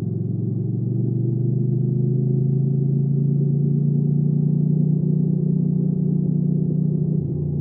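Hyosung GV300S Aquila 300's V-twin engine running under steady throttle while riding, slowly rising in pitch, then dropping suddenly near the end as the throttle closes.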